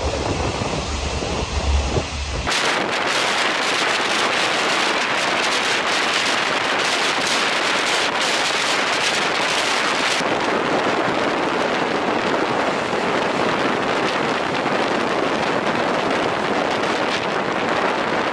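Diesel-hauled passenger train running with its windows open through a long tunnel: loud, steady rushing air and wheel noise. There is a low rumble in the first two seconds, then a sudden change to a full hiss whose upper part eases about ten seconds in. The diesel-electric locomotive's engine is dropping off as the train passes the summit of the line and starts downhill.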